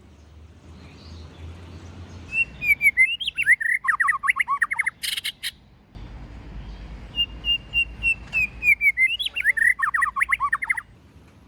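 White-rumped shama singing two near-identical song phrases, each opening with a held whistle and breaking into a fast run of rising and falling notes. A short harsh burst comes about five seconds in.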